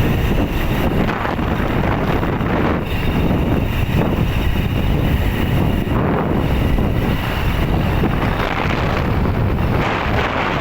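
Wind rushing over the microphone of a moving motorcycle, a loud steady roar with engine and road noise underneath.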